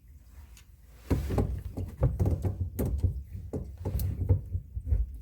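Irregular knocks and thuds, starting about a second in, from things being handled and bumped while a sink drain is taken apart.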